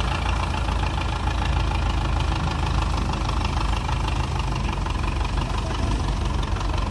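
Belarus tractor's diesel engine running steadily at an even speed.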